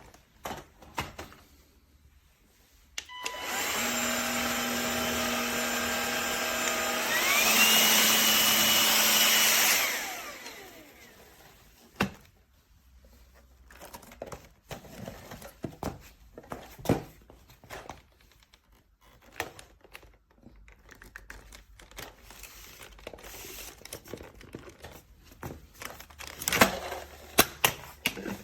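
Cordless stick vacuum's brushless motor switched on with a steady whine, stepping up about halfway through to a higher-pitched, louder speed, then switched off and winding down. Scattered clicks and knocks of handling follow.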